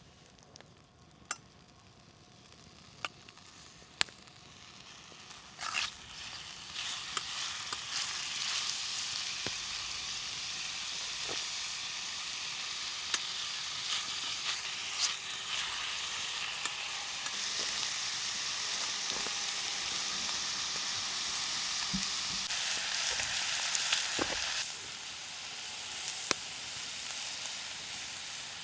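Food sizzling as it fries over a campfire, starting about five seconds in and carrying on steadily. A few sharp clicks come before it, and more scattered clicks sound through the sizzle.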